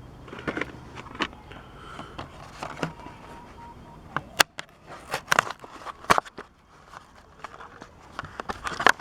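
Plastic blister packaging on a Hot Wheels card crinkling and crackling as it is pulled open by hand: a run of irregular sharp crackles and snaps, louder about halfway through.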